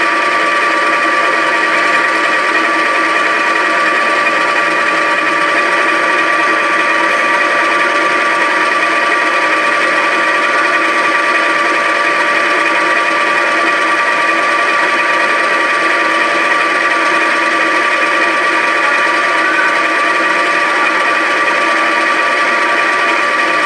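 Metal lathe running steadily during a straight-turning cut: a constant machine whine with several steady tones, unchanging throughout.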